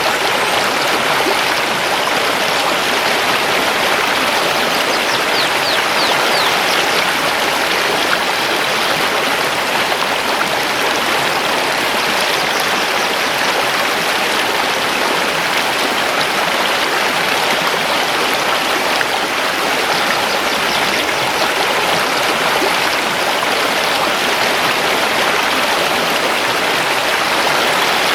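Mountain river flowing over stones: a steady, even rush of water.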